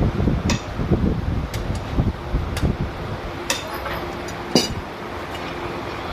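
Six-cylinder diesel engine running with a low, uneven rumble, with several sharp clicks heard over it.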